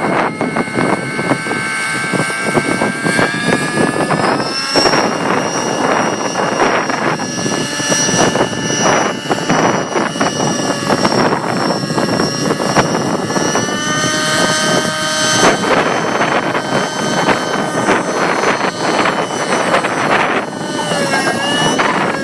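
Align T-Rex 600 nitro RC helicopter flying, its glow engine and rotors buzzing with a pitch that keeps rising and falling as the throttle changes. Strong wind rushes over the microphone underneath.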